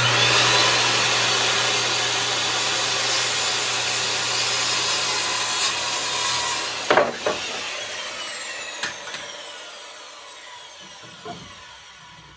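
Corded electric saw cutting through a wooden board: the motor starts suddenly and runs under load through the cut for about seven seconds, a couple of knocks sound as the cut finishes, then the blade winds down with a falling whine that fades away.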